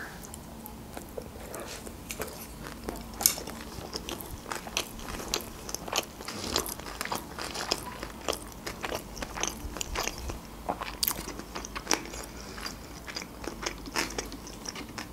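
A person biting into and chewing a mouthful of sushi roll close to the microphone, with many small irregular clicks.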